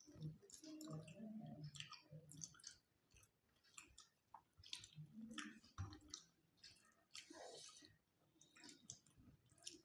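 Faint chewing and lip-smacking from people eating rice and fish curry with their hands, with many soft, irregular mouth clicks.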